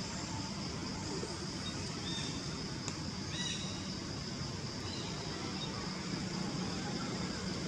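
Steady outdoor background noise with a constant high-pitched hum, and a few short high calls about three and a half seconds in, just after a single sharp click.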